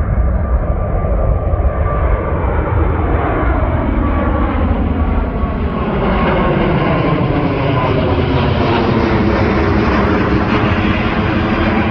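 Jet airliner passing close by, its engine tones sliding down in pitch as it goes past, and the engine noise growing a little louder from about halfway.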